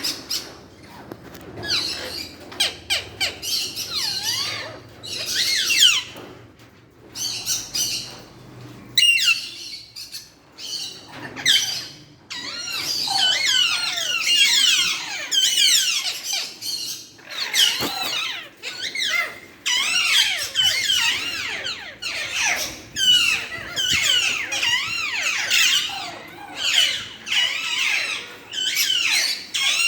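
Lovebirds and parrots chattering together: quick, high, sliding chirps and squawks. They come in scattered bursts at first, then become a dense, nearly continuous chorus from about halfway.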